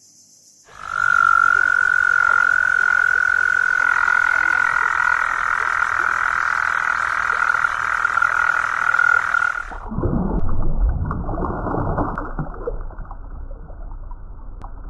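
A frog's long, steady, high trill that starts suddenly, holds one pitch for about nine seconds and cuts off. It is followed by a muffled, lower rumbling sound from the next clip.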